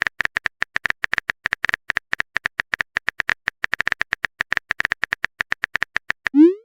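Rapid smartphone keyboard tap clicks, about ten a second, as a text message is typed out. The typing ends near the end with a short rising swoosh as the message is sent.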